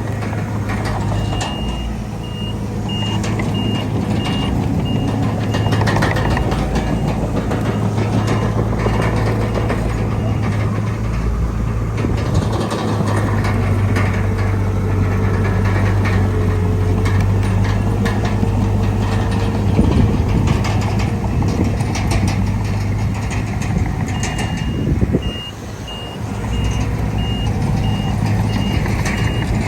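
Heavy diesel earthmoving machinery running steadily, with a reversing alarm beeping about twice a second for roughly the first ten seconds and again near the end.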